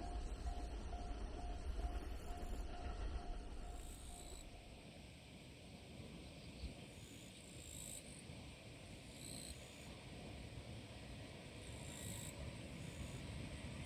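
A train rumbling past, fading out about four seconds in, with a repeating beeping tone over it until then. After that comes a quieter outdoor background with insects buzzing in short bursts, and a low rumble builds again near the end.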